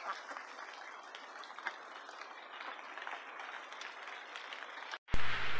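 Steady rain falling, an even hiss with a few faint ticks. About five seconds in it breaks off, and a much louder hiss takes over.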